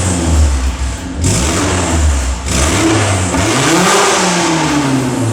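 Honda car engine revving up and down with a loud, rasping exhaust. One rev climbs about three and a half seconds in and falls away slowly.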